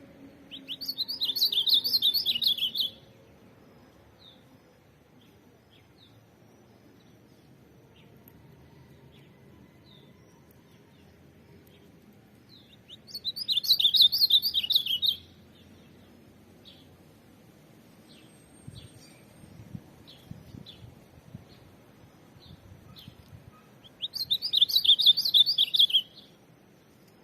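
Ultramarine grosbeak (azulão) singing three loud warbled song phrases of about two seconds each, roughly ten seconds apart, with faint short chips in between.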